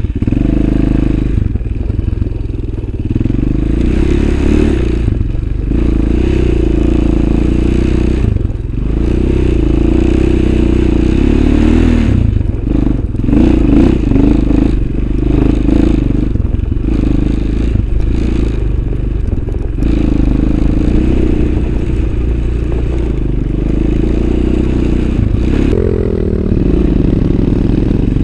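Engine of an off-road motor vehicle running while riding, with the throttle easing off briefly a few times. Scraping and clattering from the bumpy ride mix in.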